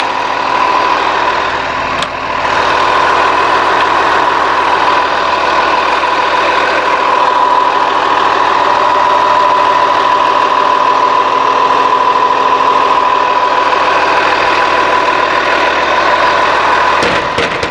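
Cummins ISC straight-six diesel engine of a rear-engine bus idling steadily, heard close up at the open engine bay, with a steady high whine running over the engine noise.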